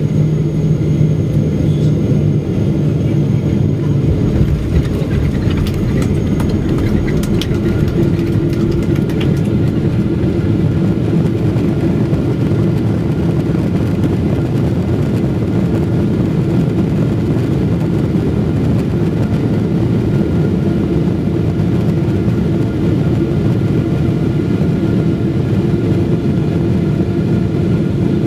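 Steady roar inside the cabin of a Boeing 777-300ER: its GE90 jet engines and rushing air, heard through the fuselage. There is a steady hum that fades a couple of seconds in, and a few light rattles and clicks from the cabin between about five and nine seconds in.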